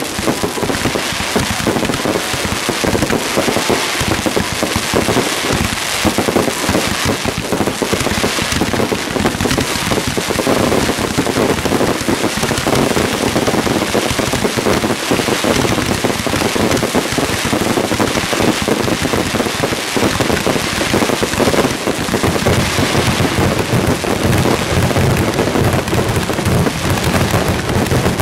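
Aerial fireworks going off in a dense, unbroken barrage: many overlapping bangs and a continuous crackle, with no let-up.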